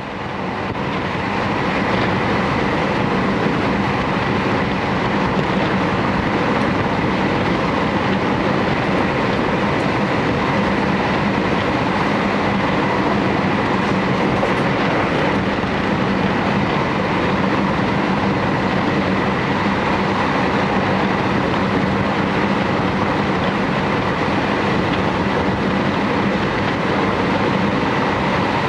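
Steady running noise inside a JR Hokkaido Series 711 electric train carriage, fading up from silence in the first second and then holding level, with a faint steady hum under it.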